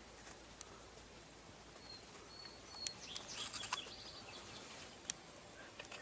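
Faint, high-pitched chirps of small wild birds, clustered a little past the middle, with a few sharp ticks scattered through.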